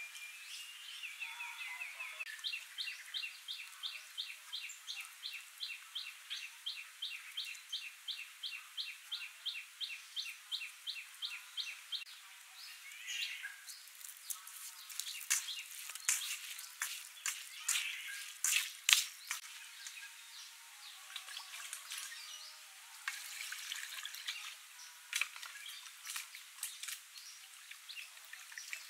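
A bird calls in a fast, even series of short high notes, about three a second, for the first twelve seconds. After that come scattered clicks and rustles from hands working salted, shredded sapodilla in a bowl.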